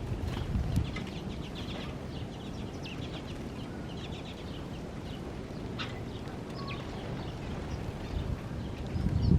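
Birds chirping and calling in quick runs of short notes over a low rumble, with a louder low thump near the end.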